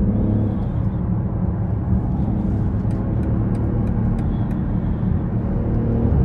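2020 BMW X6 40i on the move: the steady hum of its turbocharged inline-six under the rumble of tyres on the road.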